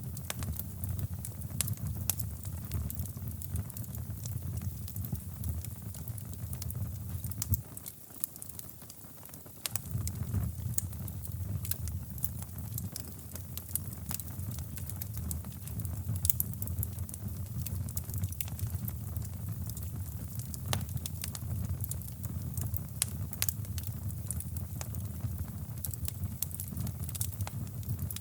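Wood fire in a fireplace crackling, with many small pops and snaps over a steady low rumbling noise. The low rumble drops away for about two seconds about a third of the way in.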